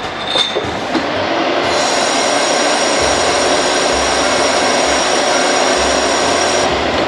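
Negative-ion bottle washing machine running: a steady rushing noise that grows louder about two seconds in and eases off near the end.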